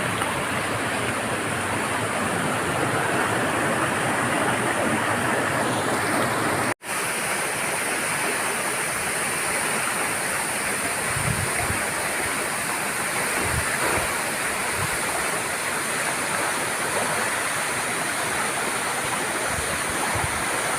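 Steady rush of flowing water, with a momentary break about seven seconds in and a few low thumps in the second half.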